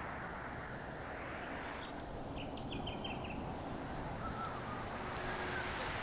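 Steady rushing background noise, with a bird calling a quick run of about eight short high notes around two seconds in and a few fainter short whistled notes later.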